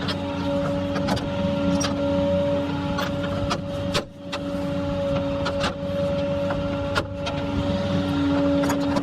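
Motor-driven tow-truck equipment running with a steady whine, scattered clicks and knocks over it, and a brief dip in level about four seconds in.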